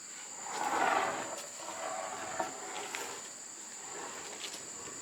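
Insects droning steadily at a high pitch, with a rustle swelling about a second in and a few light knocks afterwards, as from handling wooden poles.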